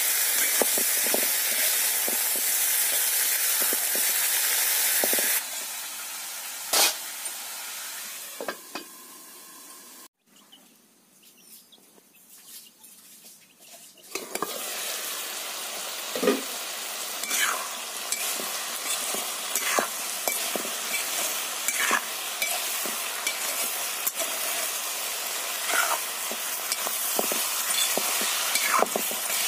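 Potato and brinjal pieces frying with a sizzle in an iron kadai, a metal spatula scraping and stirring them against the pan. The sizzle drops away for a few seconds near the middle, then comes back with repeated short scrapes of the spatula.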